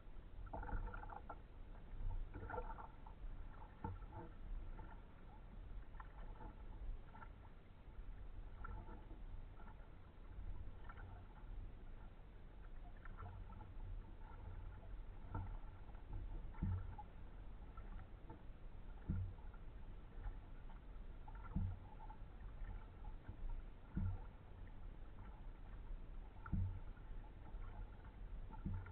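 Kayak paddling: paddle blades dipping and dripping water, with a soft knock about every two and a half seconds in the second half, under a steady low rumble.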